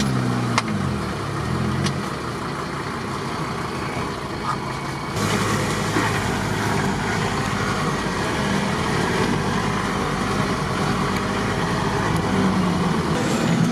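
Off-road vehicle engine running under way, heard from on board, its pitch rising and falling in the first couple of seconds. From about five seconds in, a louder steady rush of wind and driving noise joins it.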